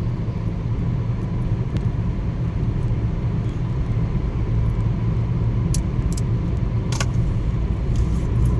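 Steady low rumble of engine and tyre noise inside a moving car's cabin, with a few faint clicks about six to seven seconds in.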